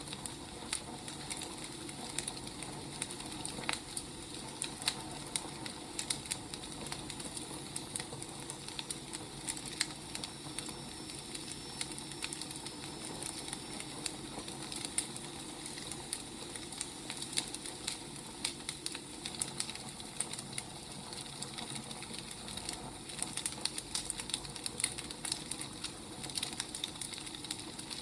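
Burning firewood crackling and popping with irregular sharp snaps over a steady low hiss.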